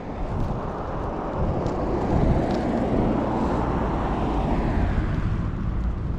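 A car driving past, its noise swelling to a peak about three to four seconds in and then fading, over wind rumbling on the microphone.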